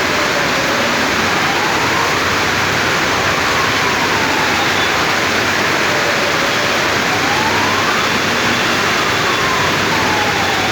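Steady rain hiss, with a faint siren slowly wailing down and up beneath it.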